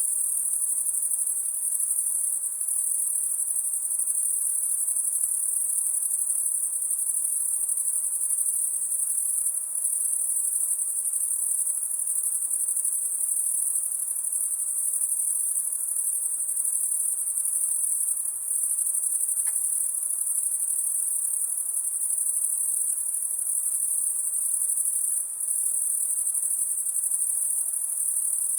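A steady, high-pitched chorus of night insects that never lets up.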